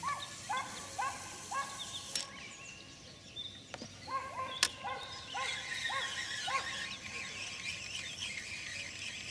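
Birds calling from the reeds: two runs of short, repeated arched calls, about two a second, with higher twittering behind them. A single sharp click comes about halfway through.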